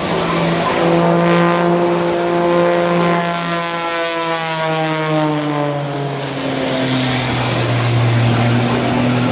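Propeller-driven aerobatic airplane's engine and propeller droning as it flies past, its pitch holding steady and then sliding slowly downward through the middle of the pass as it goes by.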